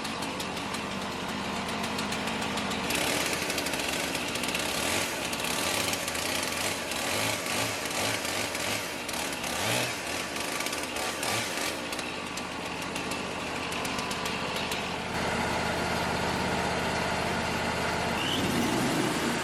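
Wood-Mizer LT35 portable band sawmill running, its engine driving the band blade through a large log. A louder, rougher stretch of cutting noise starts about three seconds in and settles to a steadier hum about fifteen seconds in.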